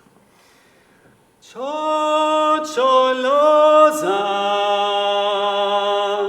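A vocal ensemble singing a cappella. After a short quiet moment the voices come in together about a second and a half in with long held notes, and the chord moves to new notes twice.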